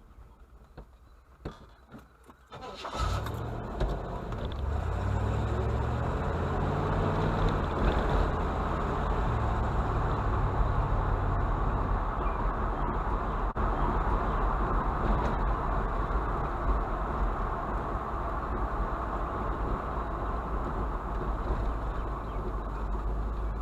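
A few clicks, then a vehicle engine starts about three seconds in. Its note shifts up and down for several seconds, then it settles into a steady run.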